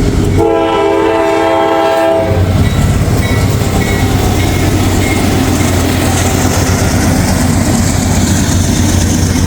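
Diesel freight locomotive's multi-chime air horn sounds one blast of about two seconds, followed by the steady low rumble of the locomotive and train rolling along the rails.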